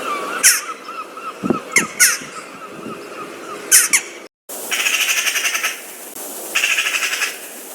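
Bird calls from two different recordings back to back. First come sharp, downward-sweeping shrieks over a run of short quick notes. After a brief cut comes a harsh, buzzy rattling call given in two bursts.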